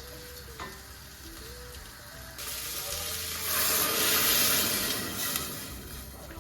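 Soft background music, joined about two seconds in by a hissing rush of noise that swells and then fades away.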